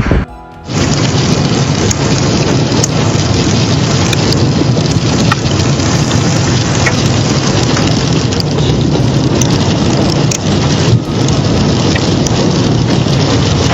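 Heavy rain pelting a surface in a storm, a loud steady downpour with scattered sharper drop impacts, beginning abruptly about half a second in.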